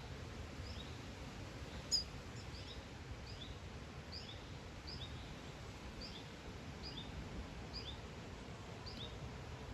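Common chiffchaff singing: a steady, repeated alternation of a higher and a lower short note, over a dozen times. A single sharp click comes about two seconds in, over a low background rumble.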